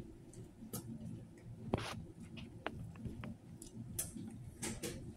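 A person chewing a mouthful of sub sandwich, with wet mouth clicks and smacks about every half second; the sharpest click comes about two seconds in.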